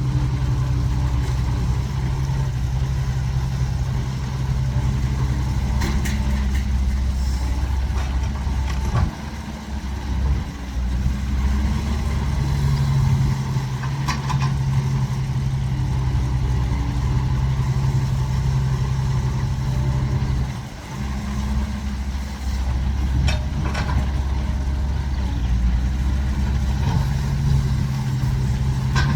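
Caterpillar 312 excavator's diesel engine running steadily under working load, with the engine note dipping briefly about nine seconds in and again about twenty seconds in. A few sharp clanks stand out over the engine.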